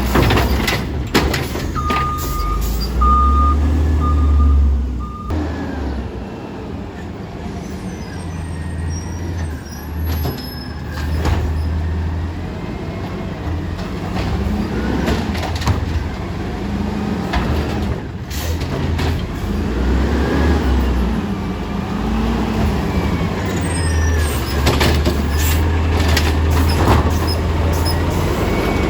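Small automated side-loader garbage truck at work: its diesel engine revs up and down over and over as the hydraulic arm and packer cycle, with knocks and bangs throughout. A few high beeps sound a couple of seconds in.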